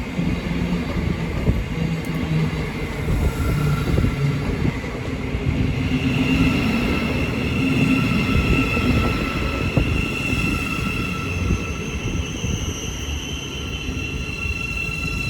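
Thameslink Class 700 electric multiple unit running into the platform and slowing. There is a continuous low rumble, which eases in the last few seconds, and a high steady whine that comes in about halfway through.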